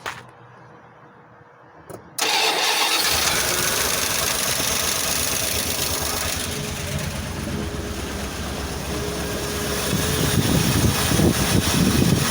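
1988 Dodge D350 truck's carbureted engine cold-starting: it fires suddenly about two seconds in and keeps running, getting louder near the end.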